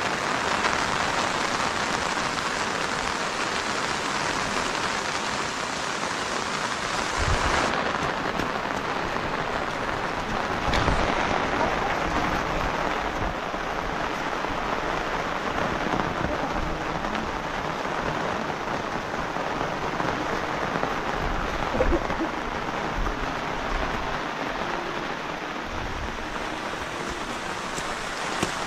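Steady rain falling, an even hiss that holds throughout, with a few faint knocks.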